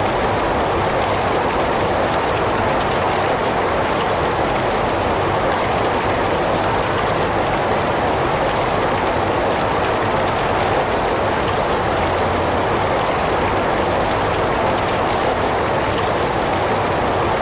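Heavy rain falling steadily, a dense, even hiss of many drops with no let-up.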